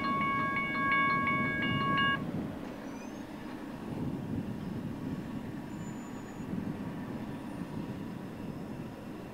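BNSF intermodal freight train rumbling past and moving away. A grade-crossing bell rings about two or three strokes a second and stops about two seconds in, leaving only the rumble.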